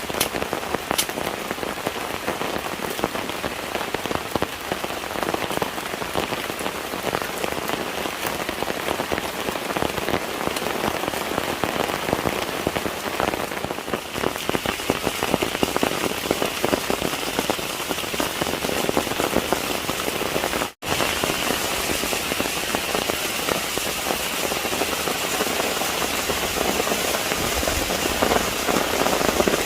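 Steady heavy rain falling on a surface, a dense patter of drops. The sound cuts out for an instant about two-thirds of the way through.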